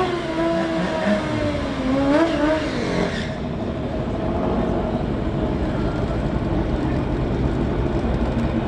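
Superbike engines running at high revs with a wavering pitch, then an abrupt cut about three seconds in to a lower, noisier engine rumble.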